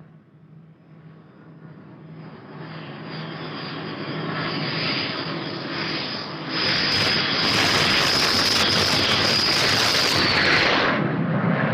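Jet aircraft on landing approach, its engine noise growing steadily louder as it nears, with a steady high turbine whine. The whine drops away near the end as the jet passes.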